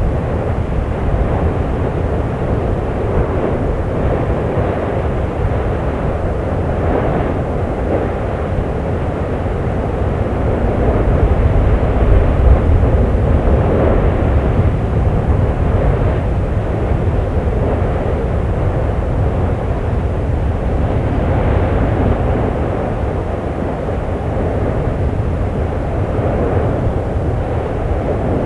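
Fagradalsfjall volcano erupting: a continuous low roar with deep rumbling underneath, swelling louder for a few seconds about halfway through.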